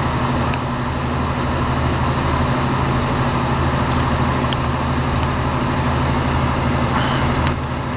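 A motor vehicle's engine idling: a steady, even low hum.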